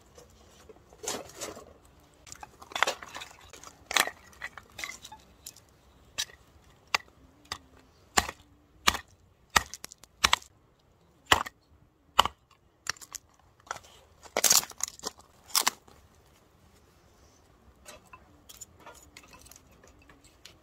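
A string of irregular sharp knocks and clacks of hard objects being handled, roughly one a second, dying away about three-quarters of the way through.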